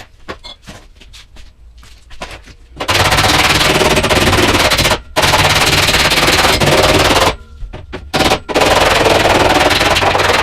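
A loud workshop tool runs in long, even bursts with a rapid crackling texture, about three seconds in, again just after, and again from about eight and a half seconds on. Light clicks and taps of handling come before and between the bursts.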